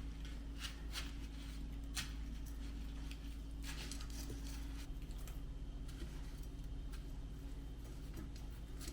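A steady low hum with scattered light clicks and knocks from handling things in a kitchen.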